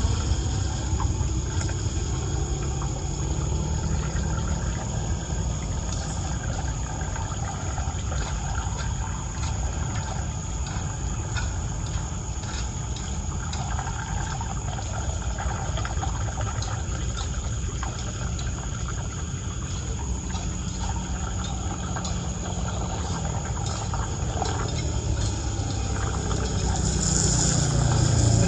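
Floodwater draining through a street drain: a steady rush of running water with a low rumble underneath.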